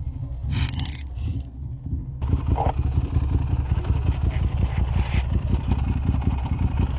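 Motorcycle engine running, muffled at first, with two short scraping clatters about half a second and a second and a half in. About two seconds in the sound suddenly opens up into the engine's rapid pulsing rumble.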